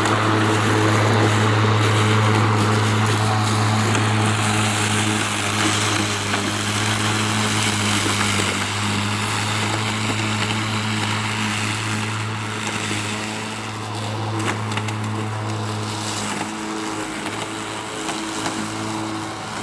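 Battery-powered Stihl 510 lawn mower running under load, its electric motor and blade giving a steady hum over the rushing noise of the blade cutting deep, overgrown grass. The hum weakens somewhat near the end.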